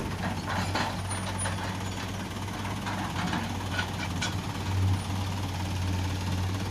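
Heavy diesel machinery engine running steadily with a low hum, swelling briefly about five seconds in, with a few light knocks in the first few seconds.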